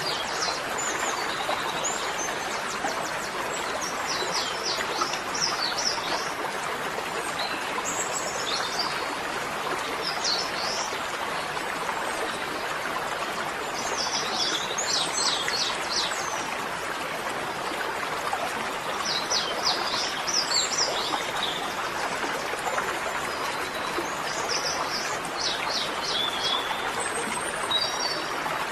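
A songbird singing short phrases of rapid high notes every few seconds, over a steady rushing background noise.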